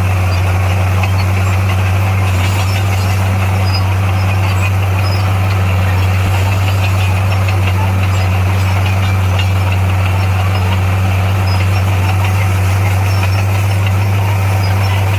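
Heavy diesel engine of earthmoving equipment running at a steady speed, a constant low drone that does not change throughout.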